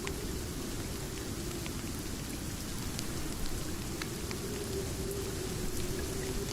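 Steady rain, a dense even hiss, with scattered sharp ticks at irregular moments.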